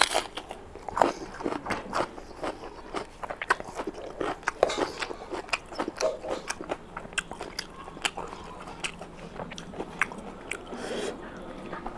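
Close-miked wet chewing and lip-smacking of a person eating rice and curry by hand, with many short smacks and clicks, mixed with the squelch of fingers working rice into gravy on the plate.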